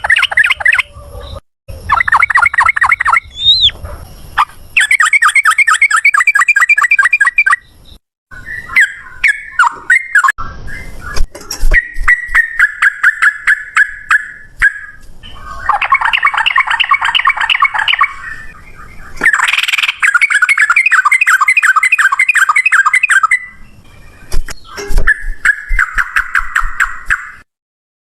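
Yellow-vented bulbul (trucukan) singing loud, rapid rattling trills (the 'ropel' song) in repeated bouts of a few seconds, separated by short gaps and abrupt cuts.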